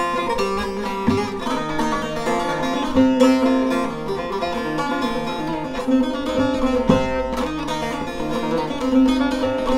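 Short-neck bağlama with a mulberry-wood body and spruce top being played: a continuous run of plucked notes over ringing drone strings.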